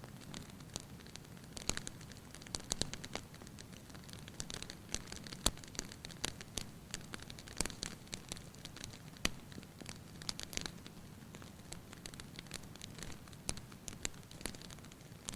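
Fire crackling in a fireplace: irregular sharp pops and snaps, several a second, over a low steady hiss of the flames. The sharpest pops come about five and a half seconds in and just after nine seconds.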